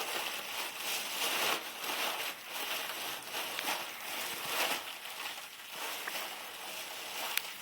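Helium rushing out of a balloon's neck as it is breathed in, in a series of breathy hissing pulses.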